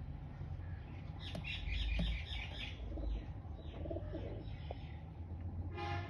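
Young Teddy pigeons peeping in a run of short high cheeps, with a few lower, softer calls a little later. Near the end a steady droning tone with many even harmonics starts up.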